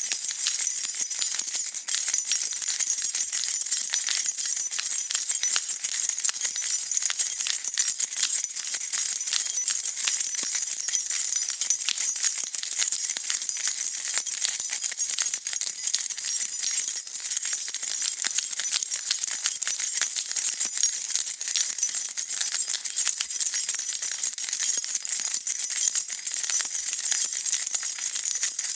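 A bunch of metal keys shaken continuously, a dense, steady jingling with no pauses.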